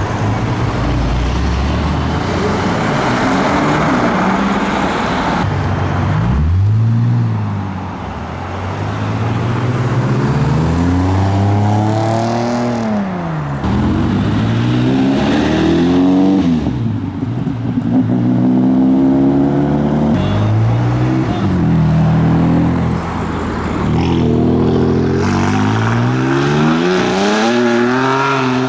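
High-performance car engines and exhausts accelerating hard. The engine note climbs and drops back again and again as they rev and shift.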